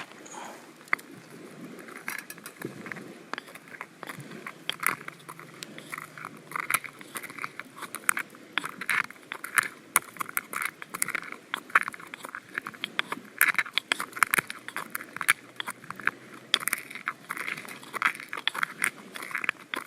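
Wood cooking fire crackling and popping, with many sharp pops a second.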